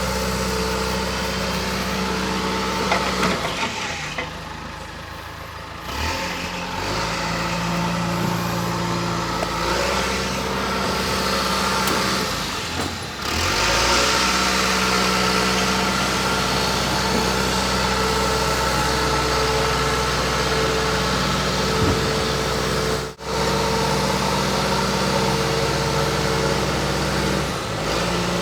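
An engine running steadily, its pitch shifting up and down several times as it works, with brief breaks in the sound.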